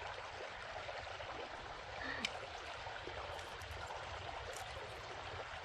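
A small trout stream flowing, a steady rush of water.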